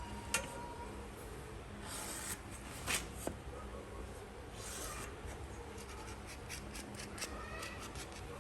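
Intermittent rubbing and scraping on wood in short strokes, with a few light clicks and taps between them.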